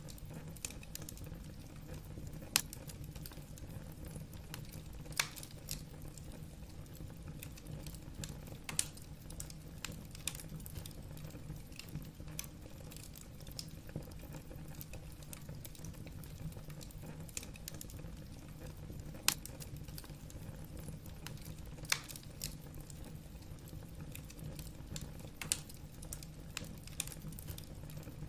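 Wood burning in a fireplace, crackling with irregular small snaps and a handful of sharper, louder pops over a steady low rumble.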